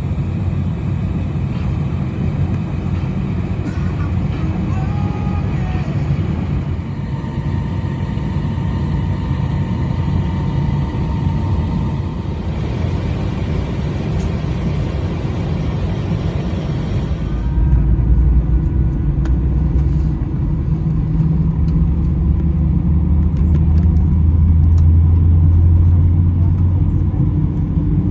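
Steady low rumble of an airliner cabin with the jet engines running, heard from inside the cabin. About two-thirds of the way through, the higher hiss falls away suddenly and the deep rumble grows stronger.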